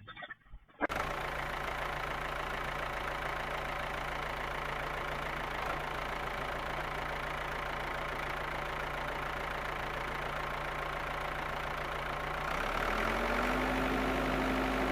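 A vehicle engine idles steadily, then revs up about twelve seconds in, rising in pitch and getting a little louder.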